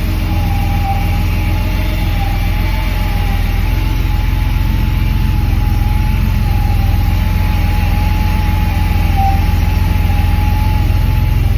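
1986 Porsche 911 Turbo's air-cooled, turbocharged 3.3-litre flat-six idling steadily while warming up from a cold start, with a thin steady high whine over the low engine note.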